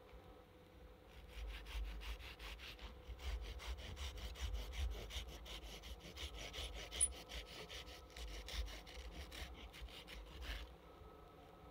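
Hand saw cutting through wood in quick, regular strokes that start about a second in and stop shortly before the end.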